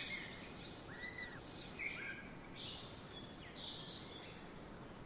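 Faint birds calling: short high chirps and whistles here and there over a low, steady outdoor background noise.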